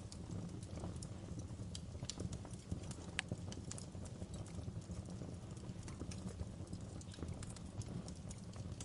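Wood fire burning in a fireplace: irregular sharp crackles and pops from the logs over a steady low rumble of the flames, with one louder pop about three seconds in.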